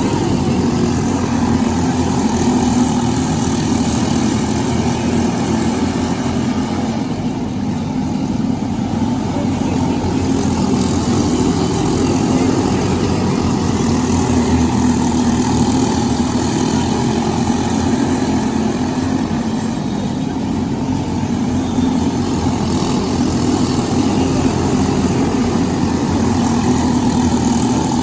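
Briggs & Stratton LO206 kart engine running hard under racing load, with the sound easing off briefly twice, about a quarter of the way in and again past two-thirds.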